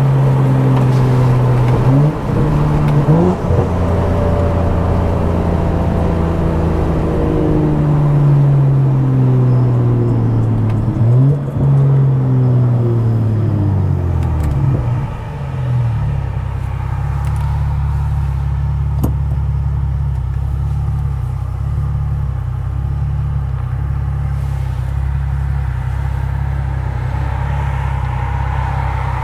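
Tuned BMW F10 535i's turbocharged inline-six through a very loud exhaust, revs falling as the car slows, with a few short blips on the way down. About halfway through it settles to a steady, rumbling idle.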